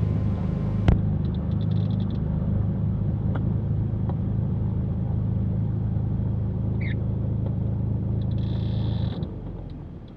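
Cessna 310Q's twin piston engines running steadily at low power, with a sharp click about a second in. The engine sound dies away near the end.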